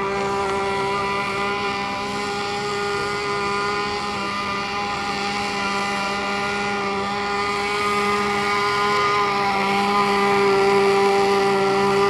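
Small model airplane engine running at a steady speed, a single held buzzing tone that grows a little louder about ten seconds in.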